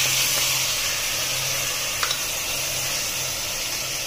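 Mutton and fried onions sizzling steadily in hot oil in an open pressure cooker while being sautéed, with one light click of the ladle about halfway through.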